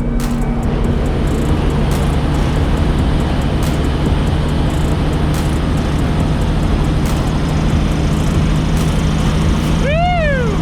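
Diesel truck engine running steadily, back to running after sitting for years. Near the end, a short pitched sound rises and falls.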